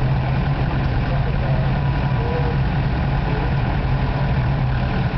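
Engine of a Case loader running steadily at idle.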